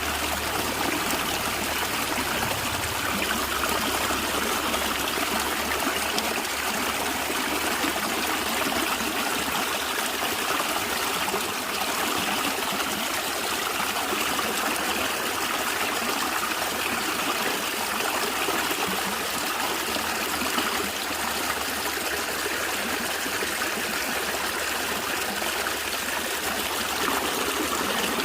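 Stream water flowing and gurgling, a steady even rush.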